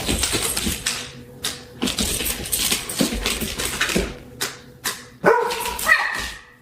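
A dog barking in short bursts, with a higher whining call near the end.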